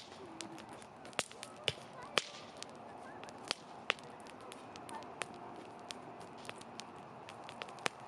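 Wood campfire crackling: irregular sharp pops and snaps over a faint steady hiss, with a few louder cracks in the first half.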